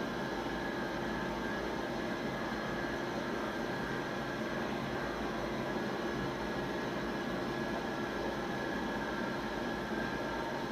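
CNC machine running a cut with its spindle set to 3000 rpm: a steady whine over constant machine noise, unchanging throughout.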